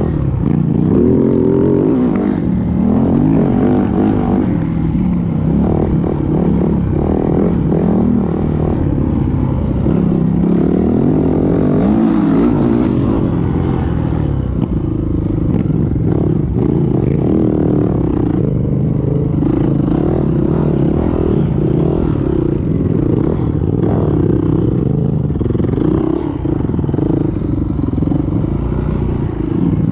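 Yamaha WR450F single-cylinder four-stroke dirt bike engine heard onboard while riding hard off-road, revving up and dropping back again and again through acceleration, gear changes and braking.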